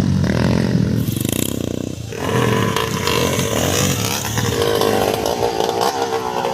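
Motocross bike engines revving, the pitch climbing and dropping. About two seconds in the sound shifts to a higher, wavering engine note.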